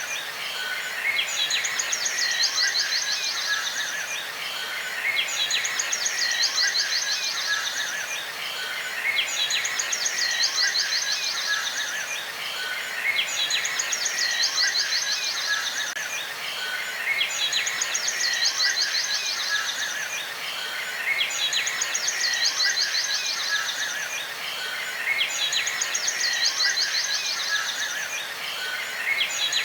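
Bird chirps and rapid trills over a steady background hiss, the same phrase coming back every four seconds or so.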